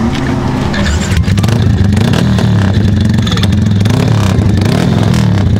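Loud car engine revving, its pitch rising and falling again and again.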